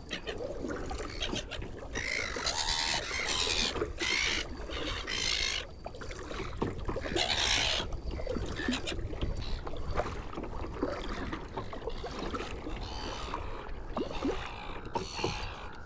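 Oars splashing and swishing in irregular strokes as a small dinghy is rowed, with wind rumbling on the microphone.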